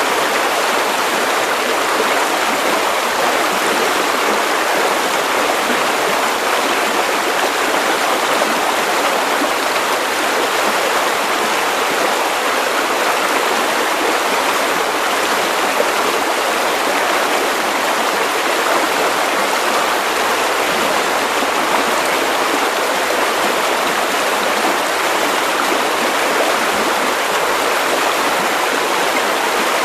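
Steady white noise: an even, unbroken hiss with little low rumble, the kind played to soothe a baby to sleep.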